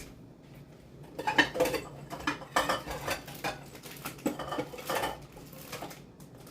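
Cutlery clinking and scraping against dishes in a quick, irregular string of clatters, starting about a second in and stopping near the end, as cat food is dished up.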